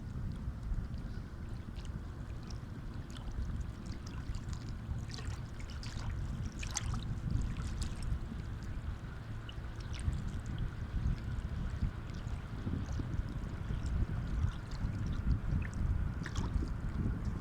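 Sea waves: a steady low rumble of water with scattered small splashes.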